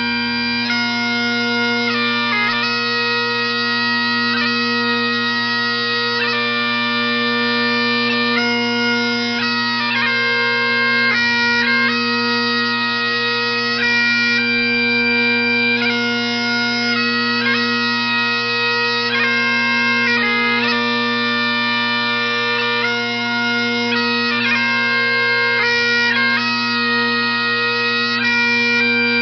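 Bagpipes playing a tune: a melody of stepping notes over steady, unbroken drones.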